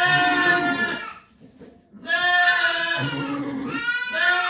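Goat bleating: three long, loud calls, the second one wavering in pitch and the third still going at the end.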